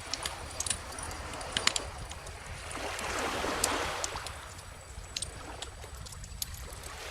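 Bonfire crackling with frequent sharp pops, over small ocean waves washing in, one swell of surf rising and falling about halfway through.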